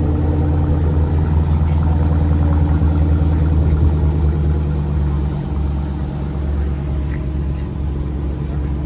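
Car engine idling with a deep, steady rumble, easing slightly about five and a half seconds in.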